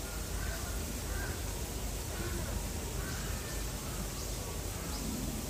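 A bird calling several times in short calls over steady outdoor background noise with a low rumble.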